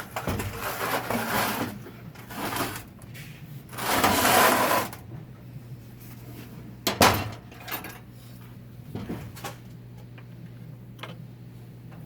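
Hand tools being handled and rummaged: scraping and rattling for the first five seconds, then a sharp clack about seven seconds in and a few lighter knocks. A steady low hum runs underneath.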